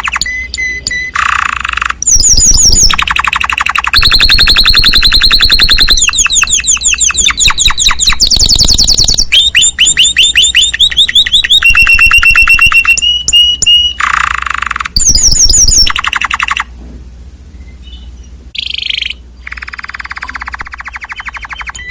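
Gelatik songbird singing loud, rapid rolling trills, phrase after phrase, each a fast run of repeated notes at a different pitch, with short breaks between phrases; the song drops quieter for a few seconds near the end.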